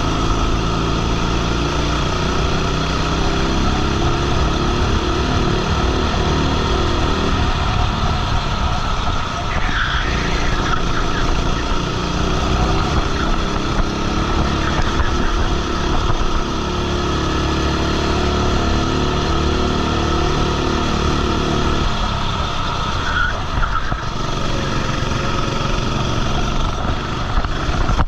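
Racing kart engine heard onboard, revving up in long climbs and dropping back off the throttle into corners, about 9 and 22 seconds in. There are short tyre squeals around those corners.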